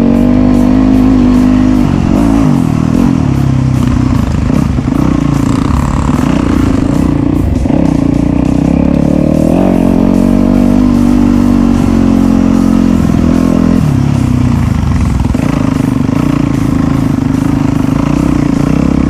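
Dirt bike engine running under load, revving up and dropping back again and again as the throttle is worked, the pitch rising and falling several times.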